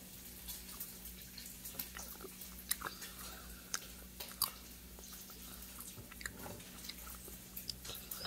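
A child chewing a chewable multivitamin with her mouth closed: faint, irregular mouth clicks and smacks.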